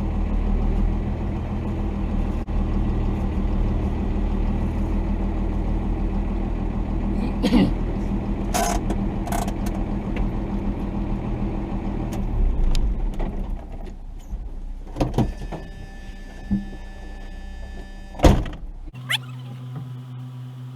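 Cummins diesel engine of a 1990 Dodge D250 pickup running steadily at low speed on a rough trail, with sharp knocks and rattles from the truck now and then. The engine drone drops away about two-thirds through, and near the end the sound changes suddenly to a steady low hum.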